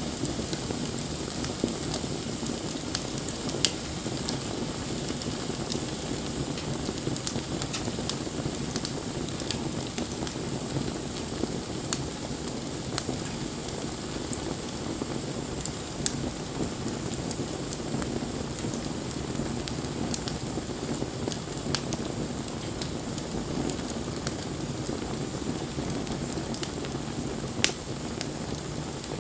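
Wood bonfire burning: a steady hiss and rumble of flames with scattered crackles and pops, a sharper pop about three and a half seconds in and another near the end.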